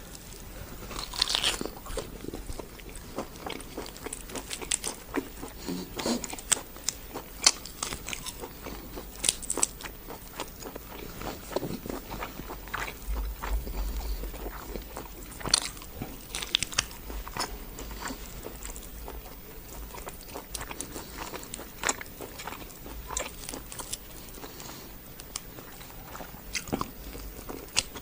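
A person eating karahi close to the microphone: irregular crunchy bites and wet chewing, with scattered sharp clicks throughout.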